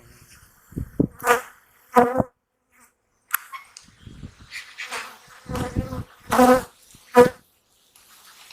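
Honeybees buzzing past close to the microphone at an open hive: several short, wavering buzzes, the loudest near the middle and toward the end.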